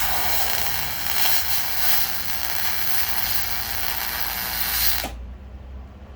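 A power tool running for about five seconds with a harsh, high noise, starting and stopping abruptly.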